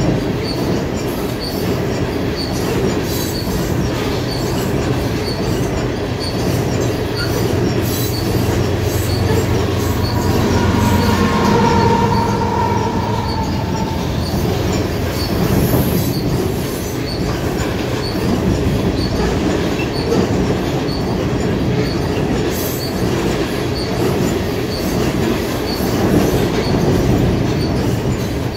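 Freight train rolling past, its wheels clicking steadily over the rail joints. A brief wheel squeal rises about halfway through.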